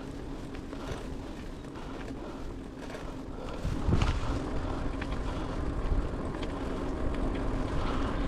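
Bicycle riding along a trail: a steady rumble of wind on the microphone and tyre noise, with scattered small clicks and rattles.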